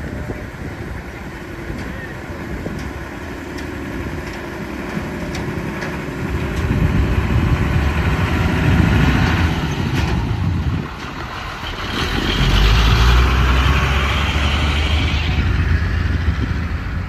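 Heavy diesel bus and truck engines rumbling close by, swelling louder twice as they labour past, with a hiss over the second swell.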